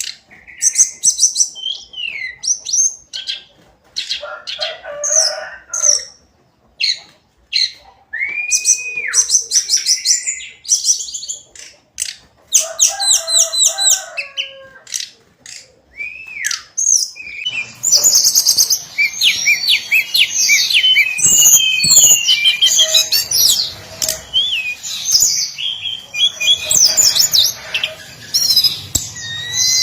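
Hill blue flycatcher singing: separate phrases of quick trills and clear whistled notes, some arching up and then down, with short pauses between them. From about eighteen seconds in, the song runs denser over a steady background hiss.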